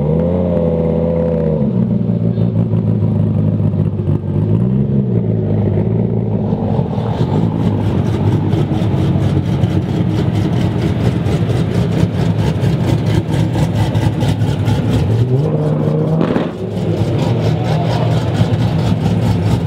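Loud performance car engines running at idle, with short throttle revs rising and falling: one at the start, one about five seconds in, and a longer one about sixteen seconds in. From about seven seconds on there is a fast, even pulsing of exhaust.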